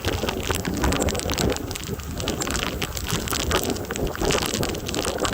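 Heavy rain falling steadily in a severe thunderstorm, dense drops striking close to the microphone, with gusty wind rumbling on the microphone underneath.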